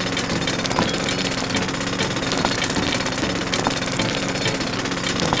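A small machine running steadily with a low hum and a noisy rattle, punctuated by sharp clicks about twice a second, like a miniature hammering or breaking tool at work.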